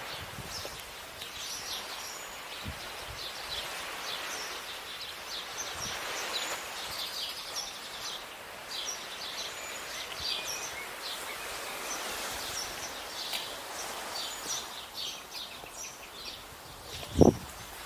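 Small birds chirping, with many short high calls, over a steady hiss of outdoor ambience. A single sharp thump near the end.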